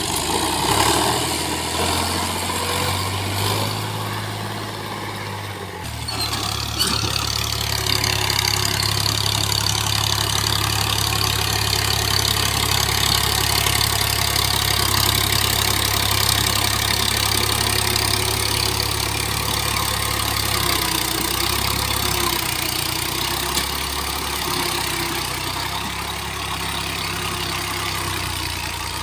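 Al-Ghazi tractor's diesel engine running steadily, being tested after garage work, with a shift in its note about six seconds in.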